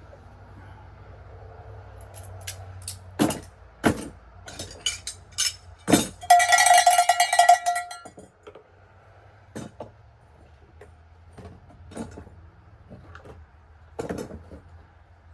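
Metal objects knocking and clanking as they are handled. About six seconds in, one piece rings out loudly like a bell for about two seconds, followed by a few lighter knocks over a faint low hum.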